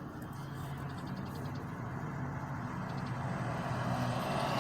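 Car engine and road noise heard from inside the moving car's cabin: a steady low hum that grows a little louder toward the end.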